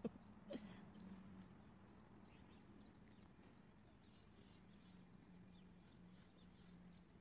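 Near silence with faint bird chirps: a quick series of short high notes, about four a second, around two seconds in, and a few scattered chirps after. A soft knock sounds twice near the start.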